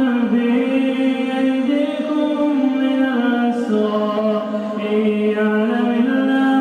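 A male reciter chanting the Quran in melodic tajwid style, drawing out one long vowel whose pitch moves up and down in steps without a break.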